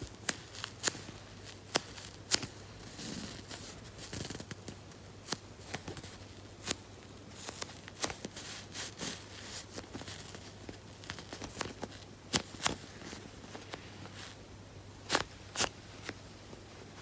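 Hands handling squishy toys: irregular sharp clicks and taps, with short bursts of rustling.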